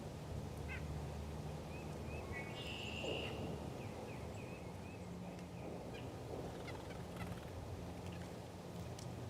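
Wild birds calling: scattered short chirps and one longer call about two and a half seconds in, over a low steady hum.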